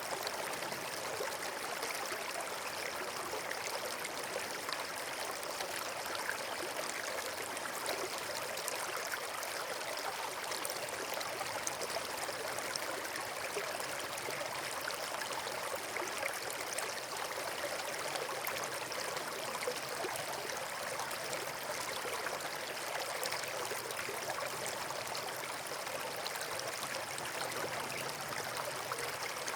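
Steady rushing of flowing water, like a stream or small waterfall, even and unbroken.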